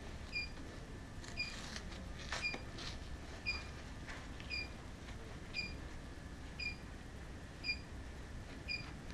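Electronic refrigerant leak detector beeping steadily, one short high beep about every second, over a low steady hum.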